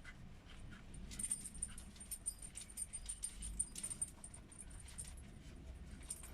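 Black marker pen scratching and squeaking on paper in quick short strokes, drawing small crosses and stripes.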